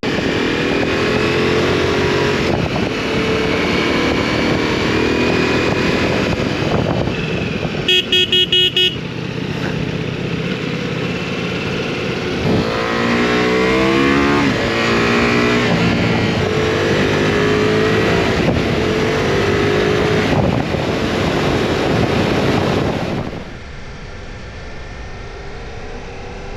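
Ducati Multistrada V4's V4 engine under way, pulling up through the revs and changing gear, over wind noise. A horn toots about five times in quick succession about eight seconds in. The engine drops to a quieter note near the end.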